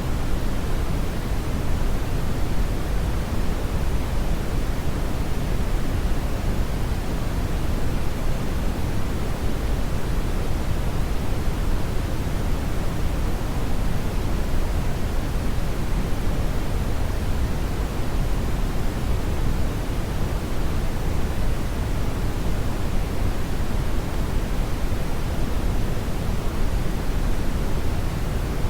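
Steady brown noise: an even, deep rushing hiss, strongest in the low end and dulled at the top, with no change or events.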